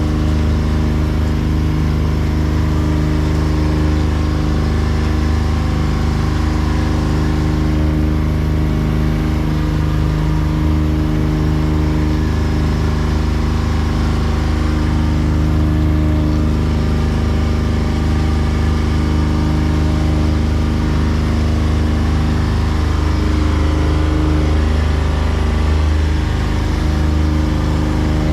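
Tour boat's engine running steadily at cruising speed, a constant low drone with even overtones.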